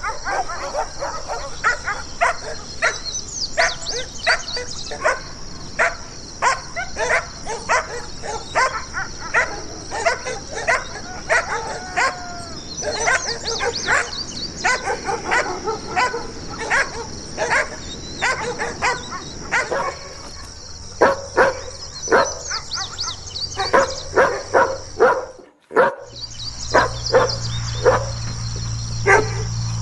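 Angry dogs barking in quick, repeated barks, often several a second, over a steady high hiss. Near the end the sound cuts out for a moment, then the barking goes on over a low hum.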